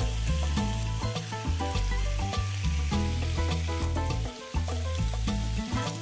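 Salmon steaks sizzling on a hot grill pan: a steady frying hiss. Background music with a bass line plays over it and dips briefly a little past four seconds in.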